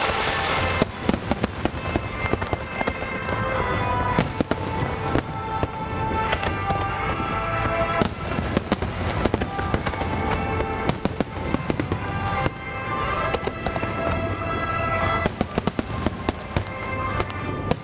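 Fireworks display shells bursting in quick, dense succession with sharp bangs and crackling, over a song played to accompany the show.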